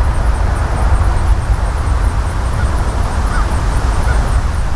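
Freight train cars rolling past at track side, a steady low rumble of wheels on rail.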